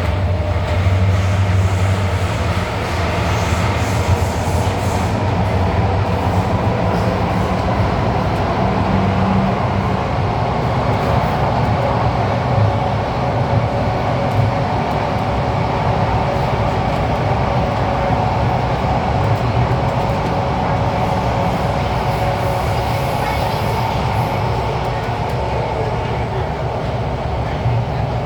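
Thomson-East Coast Line KSF CT251 metro train running between stations, heard from inside the car: a steady rumble of wheels on rail with motor hum. A low hum is strongest for about the first ten seconds, then fades under the running noise.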